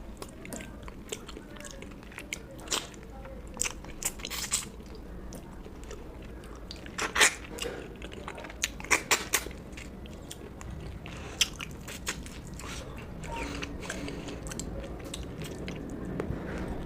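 Close-miked eating: chewing and biting mouthfuls of fish curry and rice, with irregular wet mouth clicks and smacks and a few crisper crunches, the loudest a little past the middle.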